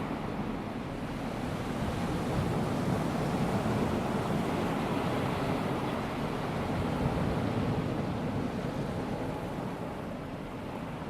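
Small waves of a calm sea washing onto a sandy beach: a steady hiss that swells slowly and then eases off near the end.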